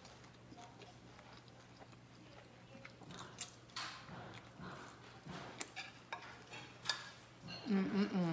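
Close-miked biting and chewing of a fried sweet plantain: a run of wet mouth clicks and smacks, starting about three seconds in. Near the end comes a short hummed voice sound.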